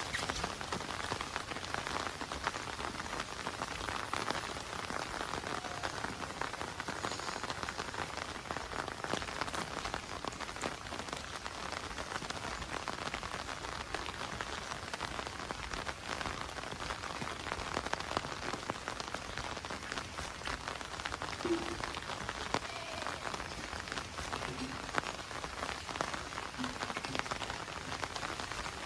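Heavy monsoon rain falling steadily, with many individual drops striking close by.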